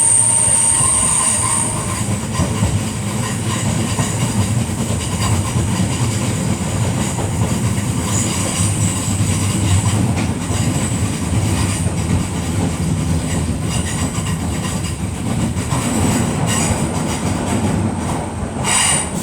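Merseyrail Class 508 electric multiple unit running on the track: a steady rumble of wheels and running gear, with a high thin whine strongest in the first couple of seconds and a brief hiss near the end.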